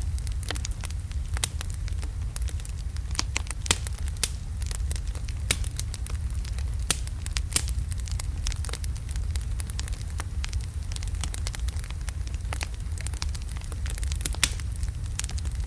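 Wood fire of large logs burning in a fireplace: a steady low rumble of the flames with irregular sharp crackles and pops throughout.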